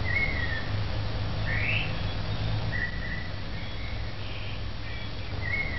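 Birds calling in a few short whistled notes, some falling and some rising in pitch, over a steady low hum.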